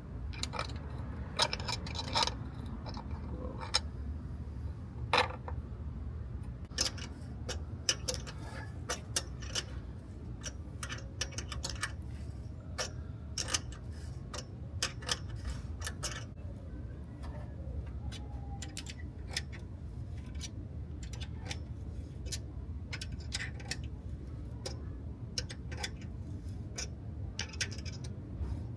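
Scattered, irregular clicks and ticks of hand tools working the bolts of a driver's-side engine mount, over a steady low hum.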